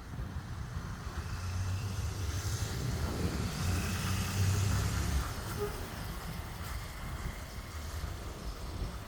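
A motor vehicle's low rumble and road hiss, swelling and easing off between about two and five seconds in.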